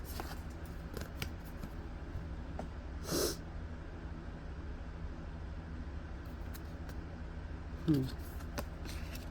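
Oracle cards being handled: scattered small clicks and a short rustle about three seconds in, over a steady low hum, with a brief low pitched sound near the end.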